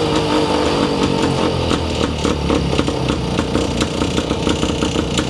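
1946 Husqvarna Model 24's 118cc single-cylinder two-stroke engine, newly got running, idling. Its revs drop back at the start and settle into an even, steady beat of firing strokes.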